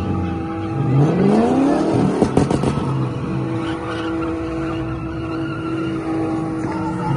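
Car engine idling, revved hard once about a second in, the pitch climbing then falling back, with a few sharp cracks as the revs drop, then settling to a steady idle; another rev begins right at the end.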